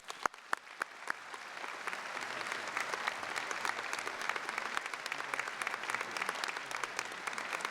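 Audience applauding: a few scattered claps at first, building within a couple of seconds into steady applause from a large crowd in a hall.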